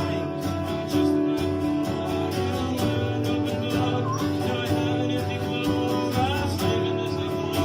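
Acoustic guitar playing a song, chords strummed in a steady rhythm.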